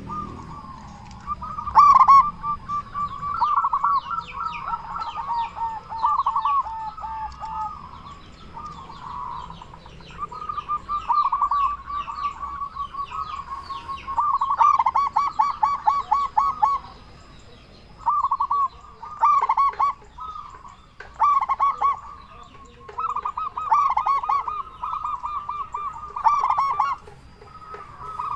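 Zebra doves (perkutut) cooing in repeated phrases of quick, rippling staccato notes, separated by short pauses, with fainter high chirps in between.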